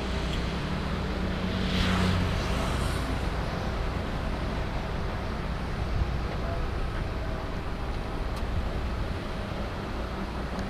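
Steady low engine rumble, with a louder rushing pass that swells and fades about two seconds in.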